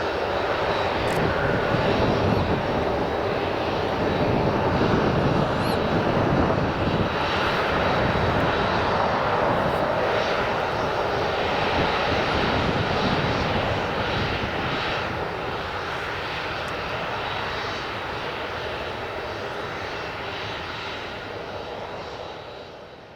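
Tupolev Tu-154M jet airliner's three rear-mounted Soloviev D-30KU-154 turbofan engines, a loud, steady jet noise that swells, then slowly dies away and fades out near the end.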